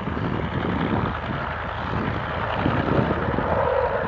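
Dassault Rafale fighter's twin jet engines running during a display pass: a steady, loud rush of jet noise, with a tone in it growing stronger near the end.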